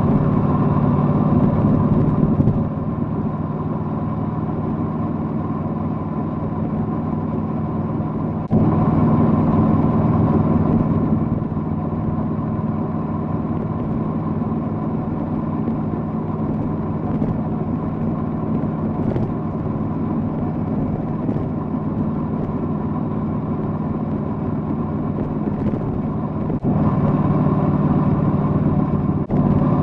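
Triumph Bonneville Bobber's 1200 cc parallel-twin engine running while riding. The engine note steps up sharply twice, about a third of the way in and again near the end, as the throttle opens, and settles back to a steady cruise in between.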